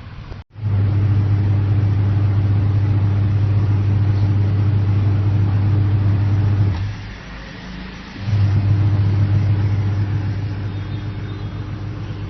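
Washing machine's capacitor-run wash motor humming loudly under the timer's control; it stops about seven seconds in and starts again about a second and a half later, the pause-and-restart of the timer's two-way (forward and reverse) wash cycle.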